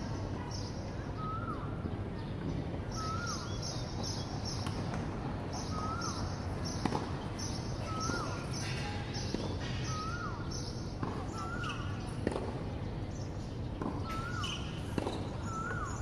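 A bird calling over and over, each call a short note that rises then drops, about once a second, over a steady outdoor hum and pulsing high buzzing. A few sharp knocks sound now and then.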